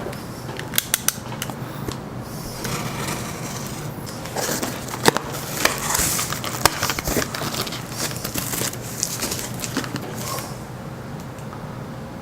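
Cardboard box being opened by hand: a few sharp clicks about a second in, then rustling and scraping of cardboard flaps and packing, with scattered knocks, dying down near the end.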